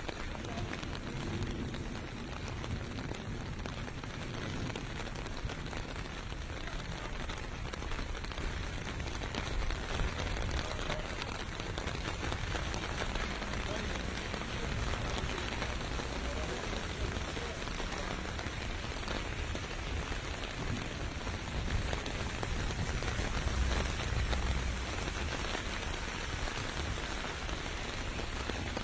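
Steady rain pelting on city pavement, with a low rumble of distant traffic underneath that swells briefly near the end.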